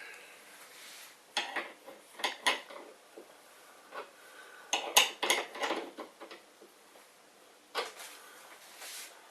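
Light metallic clinks and knocks, scattered and irregular with a cluster in the middle, as the CNC machine's levelling bolts and feet are handled and adjusted to centre the spirit-level bubble.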